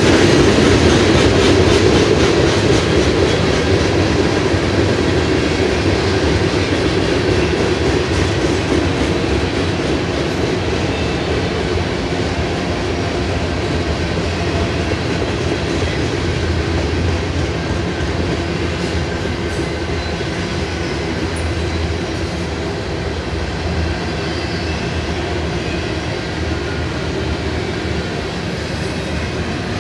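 Freight cars of a passing train rolling by at close range: a steady rumble and clatter of steel wheels on the rails, slowly growing quieter.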